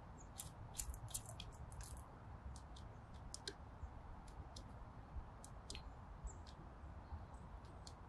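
Birds at a seed feeder: a quick scatter of short, sharp, high-pitched ticks and chirps, thickest in the first two seconds, over a faint low steady rumble.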